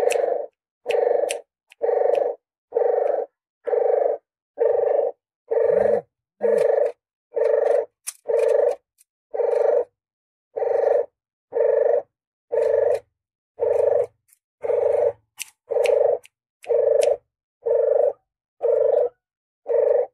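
Puter geni dove (a Barbary dove) cooing, a lure call for drawing doves in: one short low coo about every second, repeated steadily, with a faint click at the start of many of the notes.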